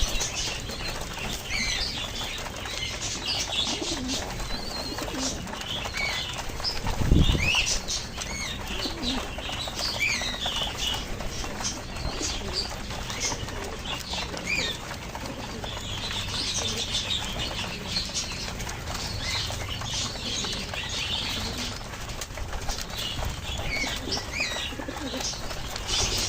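Pigeons flapping their wings at feeding time, with many short high chirps throughout and one low thump about seven seconds in.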